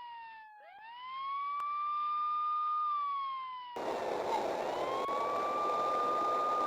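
Police car siren wailing: a tone that rises, holds, then slowly falls, twice over. A little past halfway, a rush of road and traffic noise comes in under it.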